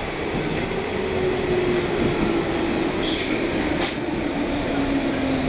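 JR West 221 series electric train rolling slowly into the platform, a low whine falling in pitch as it slows. A short hiss comes about three seconds in, followed by a sharp click.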